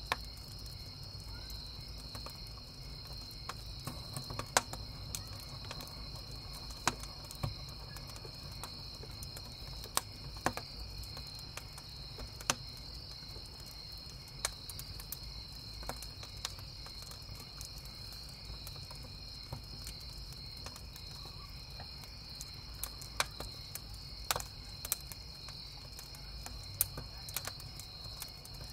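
Wood campfire crackling, with irregular sharp pops every second or so, over a steady, unbroken chorus of chirping crickets.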